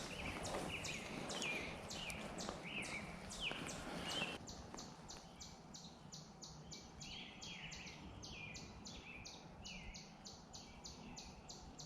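Songbirds chirping outdoors: short chirps that slide down in pitch, over a steady string of high ticking notes at about three a second. Faint rustling underneath fades out about four seconds in.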